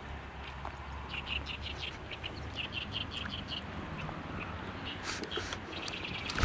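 A small bird chirping in two quick runs of high, evenly spaced notes, over a steady rush of flowing river water. A few sharp clicks come about five seconds in.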